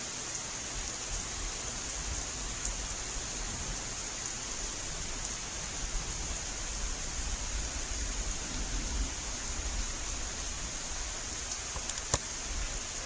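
Heavy rain pouring down in a steady hiss. A low rumble of thunder swells through the middle, and a single sharp click comes near the end.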